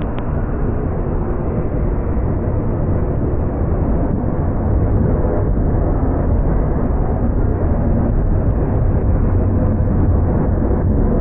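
Freight train rolling past at close range: a steady, heavy rumble of wheels on rail, with faint clicks from the wheels.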